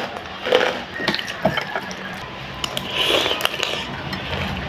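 Close-up eating sounds from spicy noodles mixed with crunchy basreng (fried fish-meatball chips): wet chewing and mouth smacks with scattered crunchy clicks, and a short hiss about three seconds in.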